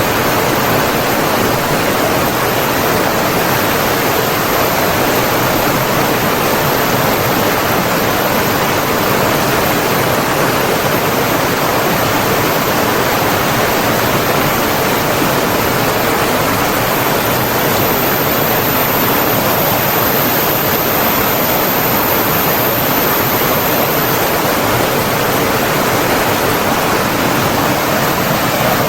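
Stream water rushing, a dense, even sound that holds steady without a break.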